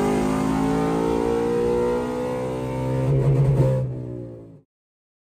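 V8 engine with long-tube headers and a full aftermarket exhaust, running at a steady engine speed. It swells louder about three seconds in, then dies away and cuts off about four and a half seconds in.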